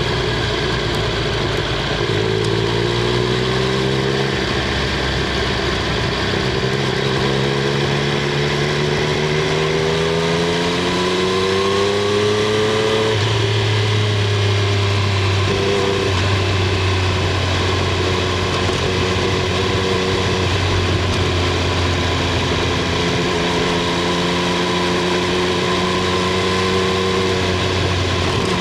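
Triumph Street Triple 765 R's inline three-cylinder engine and exhaust running on the move, heard from under the rear seat. It holds steady revs, rises gradually from about eight seconds in, drops back at about thirteen seconds, then runs steadily again.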